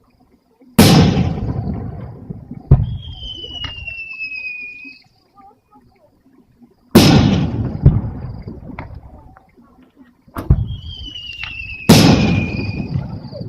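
Aerial fireworks shells bursting: about five loud booms, each fading away with a rumbling echo. Twice a high whistling tone glides slowly down in pitch for about two seconds.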